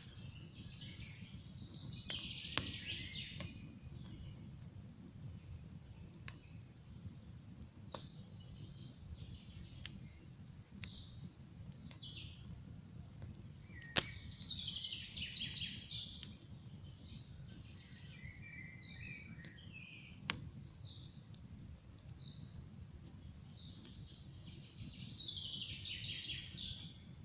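Wood campfire crackling, with a steady low rumble and sharp pops now and then. Songbirds sing over it, three longer falling trilled phrases standing out: near the start, around the middle and near the end.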